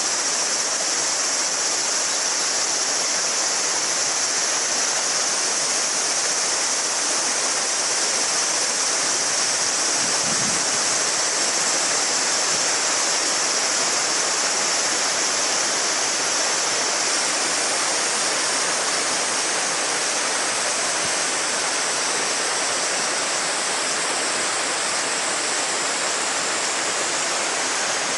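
Summer river babbling steadily, with a chorus of cicadas shrilling in a constant high band above the rush of water.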